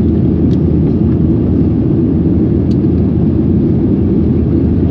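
Steady, loud low rumble of an airliner heard from inside the passenger cabin: engine and airflow noise, with a couple of faint clicks.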